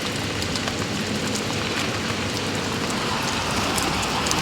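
Heavy rain falling: a steady hiss with scattered drop ticks.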